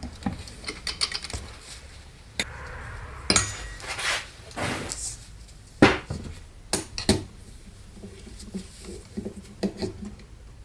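Metal parts and tools clinking and knocking as they are handled and set down, in irregular sharp knocks, two of them louder than the rest.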